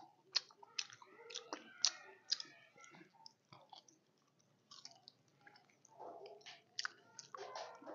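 A man chewing a mouthful of steamed pork rib close to the microphone: wet mouth smacks and sharp clicks, with a short lull about halfway through before the chewing picks up again.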